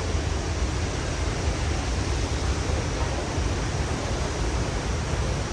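Waterfall rushing: a steady, unbroken wash of falling and splashing water with a strong low rumble.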